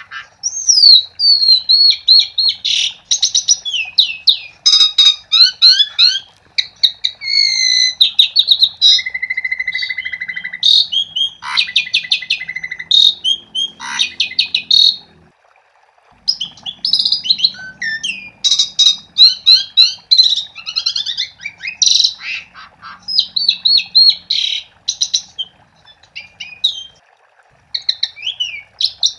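Asian pied starling (jalak suren) singing energetically: a long, varied run of quick whistles, chattering notes and a buzzy held note, broken by a short pause about halfway through. A faint steady hum lies underneath.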